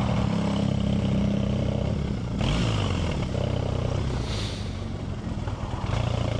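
Motorcycle engine running while riding. About two seconds in, the engine note drops and falls in pitch as the bike slows, with a rush of wind noise. The steady engine note returns near the end.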